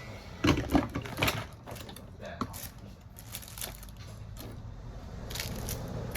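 Scattered sharp clicks and taps of small hand tools and parts being handled during a smartphone repair, loudest in a quick cluster in the first second and a half, over a low steady background hum.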